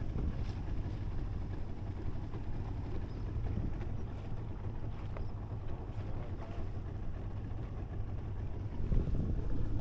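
Boat engine running steadily under way, a low even hum with wind buffeting the microphone. It gets a little louder near the end.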